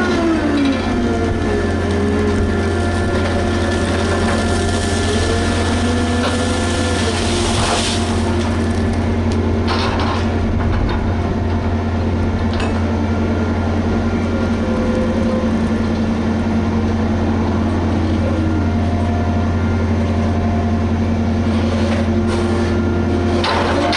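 Liebherr HS8200 dragline working: its engine runs steadily with a deep hum, and its pitch rises and falls as the machine works. A couple of brief knocks come about a third of the way in.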